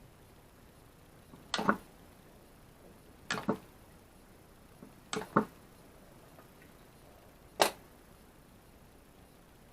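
Four short, sharp clicks about two seconds apart; the first three are doubled and the last is single.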